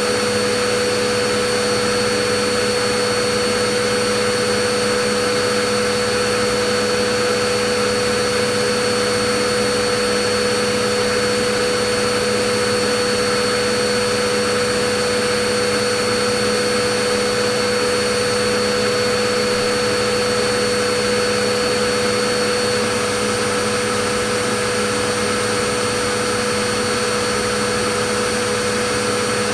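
Vacuum cleaner running steadily, a constant whooshing hiss with a steady motor whine and no change in pitch.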